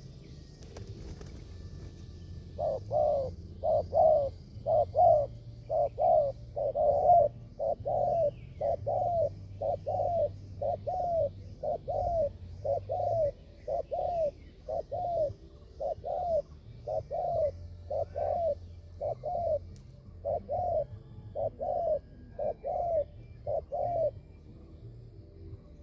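Spotted dove giving a long steady run of short coos, some two dozen in all, a little under one a second, stopping near the end.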